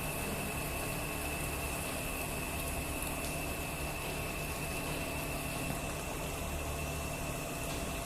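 A machine running steadily: a constant hum with a thin high whine over it and a rushing noise underneath.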